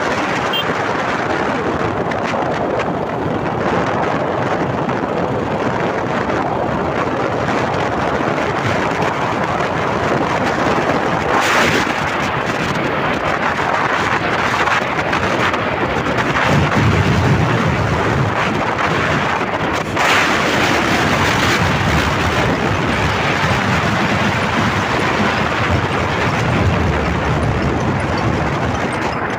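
Wind rushing over the microphone of a camera on a moving motorbike: a loud, steady rush.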